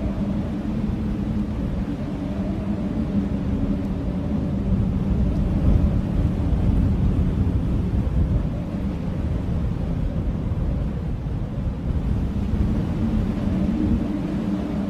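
Howling blizzard wind: a steady low rumble of gusting wind with a faint, wavering moan held over it, swelling a little through the middle.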